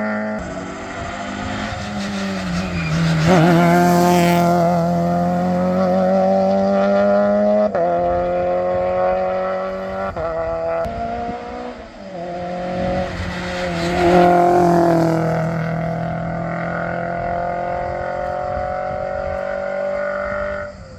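Modern rally car engine working hard on a special stage, its pitch climbing under acceleration and dropping abruptly at gear changes and lifts. It is loudest about four seconds in and again about fourteen seconds in.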